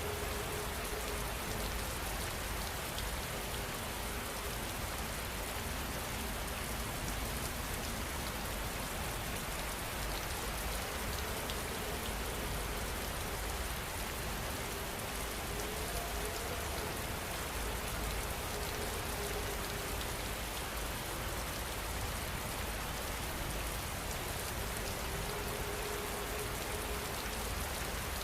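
Steady rain falling, an even hiss of many drops that never lets up.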